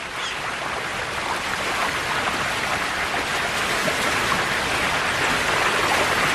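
Rushing river water: a steady, dense rush of flowing water that grows slowly louder.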